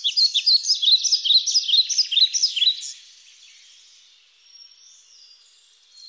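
Songbird singing a fast, loud run of short high chirps for about three seconds, then only faint high notes.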